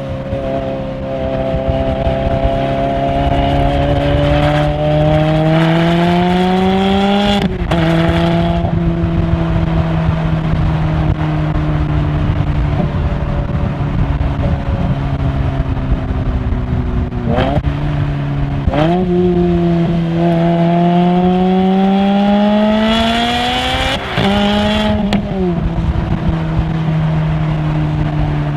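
Ferrari V8 engine and exhaust accelerating through the gears. The pitch climbs steadily for several seconds and falls sharply at an upshift about a third of the way in, then holds steady while cruising. Two quick rev blips follow as it downshifts, and it climbs again to another upshift near the end.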